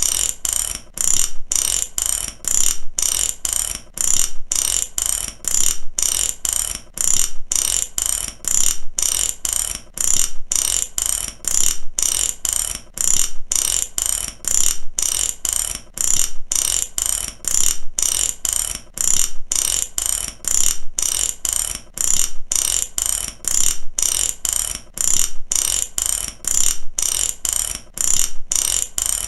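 Mechanical ratchet clicking over and over, its pawl snapping across the teeth in short runs of a few sharp clicks with brief gaps, at a steady rhythm.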